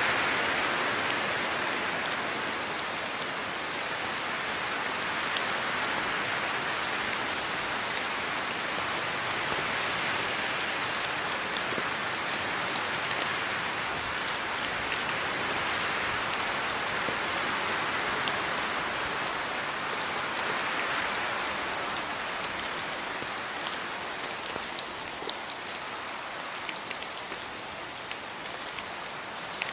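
Steady rain falling, an even hiss dotted with sharp ticks of individual drops hitting. It swells and eases slowly and grows a little lighter near the end.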